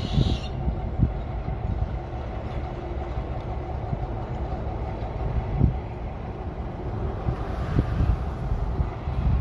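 Low, steady rumble of heavy machinery working at a rail derailment site, with irregular low thumps and a hiss that swells briefly about eight seconds in.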